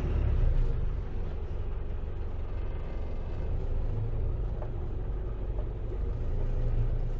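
Steady low rumble of a motor vehicle on the move: engine and road noise with no sharp events.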